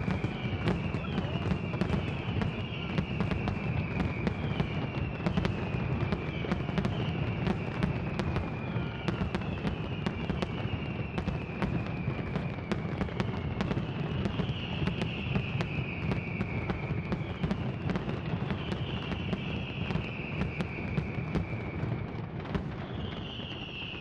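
Fireworks display: a dense run of sharp bangs and crackles over a heavy low rumble, with a series of falling whistles about every second or two. It eases off near the end.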